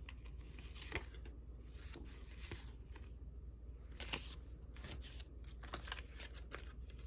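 Faint rustling and light taps of paper cards being handled and leafed through: a stack of vintage Valentine cards.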